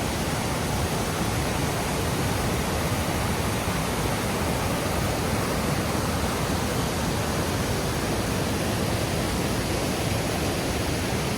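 Waterfall: the steady rush of falling water, an even noise that holds unchanged throughout.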